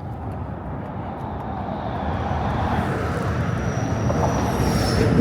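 Highway traffic going by: the rumble of a vehicle on the road grows steadily louder as it approaches, with a thin high whine that falls slightly in pitch near the end as it passes.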